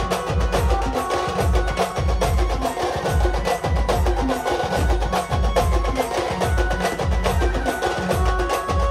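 Sambal band music: fast, sharp sambal drum strokes over a heavy, regular bass beat, with short melodic notes above.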